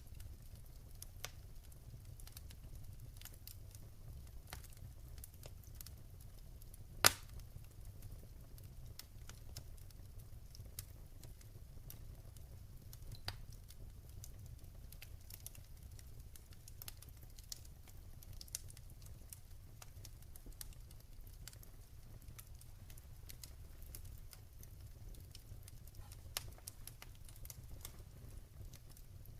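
Wood fire in a fireplace crackling, with irregular sharp pops and one loud pop about seven seconds in, over a low steady rumble.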